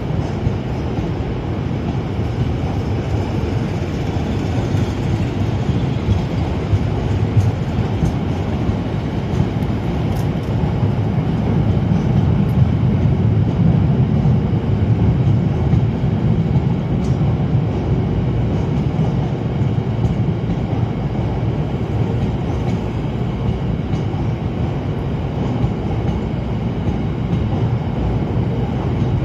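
Train running along the track: a steady low rumble that grows louder about halfway through and then eases.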